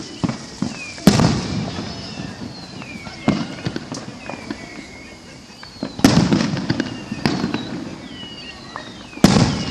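Fireworks going off: three loud booms about a second, six seconds and nine seconds in, each followed by a rumbling tail, with smaller bangs and scattered pops and crackles between them.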